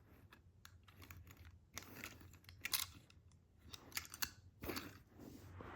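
Faint, irregular clicks and taps of small hard objects, a few louder ones around the middle and near the end.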